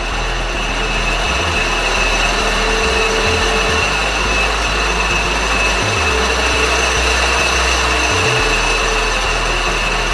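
1941 LeBlonde 17-inch Regal engine lathe turning at low spindle speed, its 5 hp three-phase motor and headstock gearing running with a steady mechanical whir and a constant high whine.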